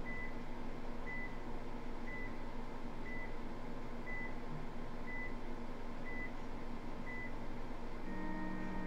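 Electronic game timer beeping once a second, eight short high beeps in a countdown that ends near the end in a longer, lower buzzer tone. A steady low hum runs underneath.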